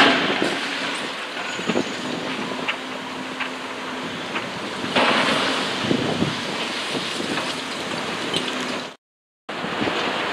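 A train running past on the line, with wind noise on the microphone; the sound swells about five seconds in and drops out completely for half a second near the end.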